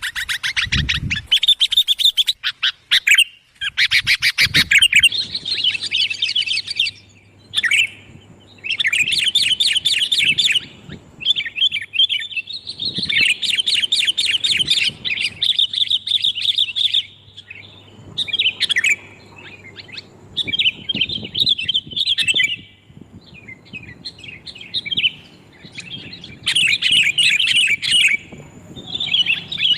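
Sooty-headed bulbuls (kutilang) chattering and singing in repeated bursts of fast, bright phrases with short pauses between them: a recording used as a lure call to draw bulbuls in.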